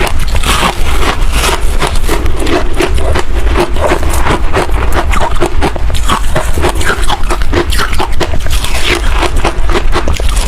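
Close-miked crunching and chewing of freezer frost ice, a dense run of crisp crunches several times a second without a break.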